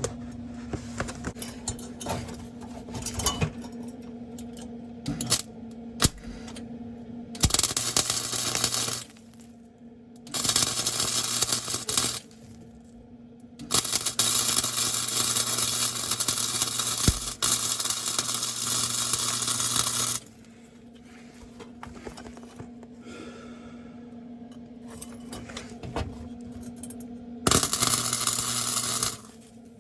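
Electric arc welder crackling and sizzling as beads are laid on an exhaust pipe, in four runs: a short one, a second of about two seconds, a long one of about six seconds, and a short one near the end, with a steady hum under each run.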